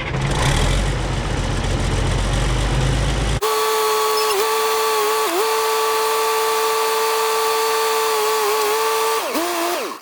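Fiat-Allis 11-B crawler dozer's diesel engine running with a low rumble. About three seconds in the sound cuts abruptly to a steady high whine with small pitch dips, which drops in pitch and stops near the end.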